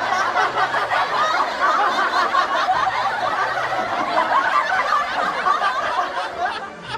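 Many people laughing together in a dense, continuous mass of laughter that dies away near the end.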